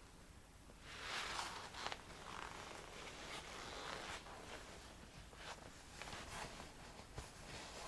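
Faint rustling and scraping handling noise that swells about a second in, followed by scattered small clicks and rustles.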